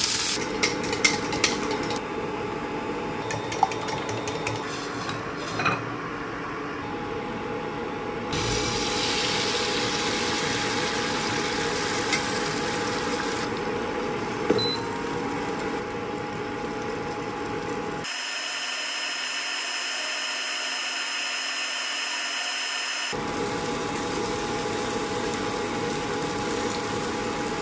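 Food frying in oil in a non-stick pan: a steady sizzle with a faint hum underneath, and a few light taps in the first several seconds. The sound changes abruptly several times where the clips are cut, first smiley-face potato snacks and then egg frying.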